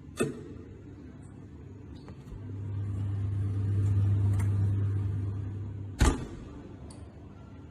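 A motorised machine starts with a clunk, then a low electric motor hum swells and fades for about four seconds, and a heavier clunk comes as it stops.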